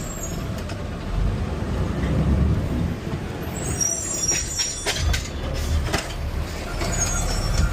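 Garbage truck heard from the cab: the diesel engine runs with a steady low rumble, a brief high squeal comes about four seconds in, then several clanks and knocks follow over the next two seconds, typical of a can being lifted and emptied by the truck's arm.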